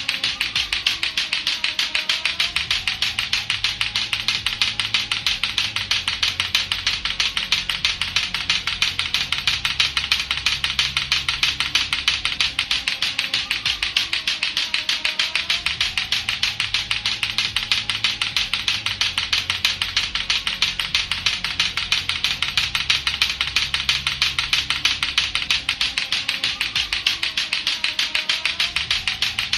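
Lato-lato clackers, two hard plastic balls on a string, knocking together in a rapid, steady, unbroken clacking.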